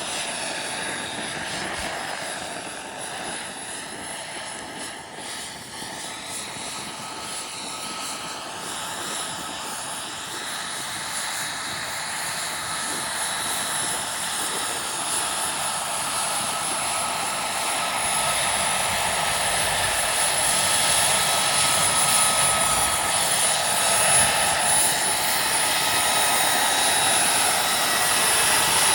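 Turbine-powered RC model helicopter running: a steady high turbine whine over rotor and engine rush, growing steadily louder throughout.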